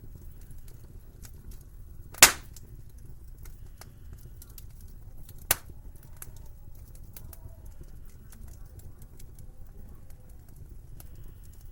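Wood fire crackling in a fireplace: scattered small crackles over a low rumble, with two loud sharp pops, the first about two seconds in and the second about five and a half seconds in.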